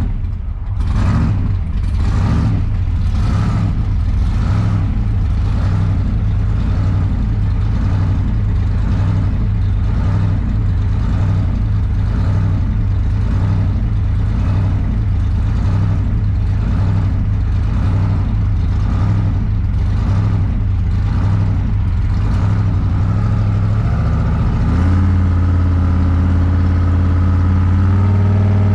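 Car engine running steadily while driving, with an even pulsing about one and a half times a second. About 24 s in the engine note steps up, and right at the end the engine revs up as the car accelerates.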